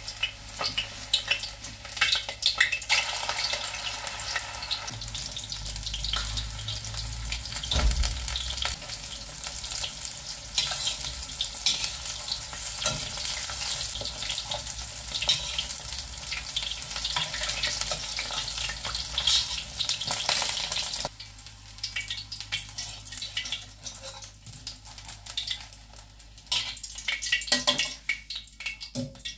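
Pieces of fish paste, like fish balls, sizzling and crackling as they fry in shallow oil in a stainless steel wok, stirred with a metal spatula. About two-thirds of the way through the sizzle drops to a lighter crackle, with scattered scrapes and clinks of the spatula against the wok.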